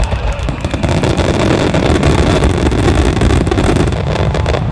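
Fireworks finale barrage (a starmine): many aerial shells bursting in quick succession, their booms merging into one continuous loud rumble.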